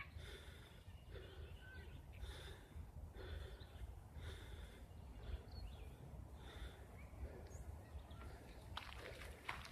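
A person breathing hard after a long walk, faint breaths in and out about once a second, over a low wind rumble on the microphone.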